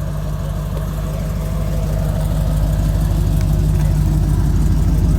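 A car engine idling with a fast, even pulse, growing steadily louder.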